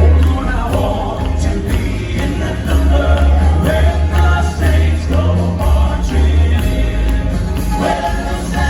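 Live Southern gospel music: a male vocal group singing in harmony over a band with a strong, pulsing bass line and light jingling percussion.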